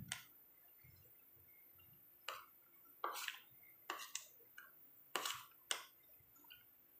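Quiet, wet mouth sounds of a man chewing pizza: a handful of short smacks and clicks, spaced roughly a second apart.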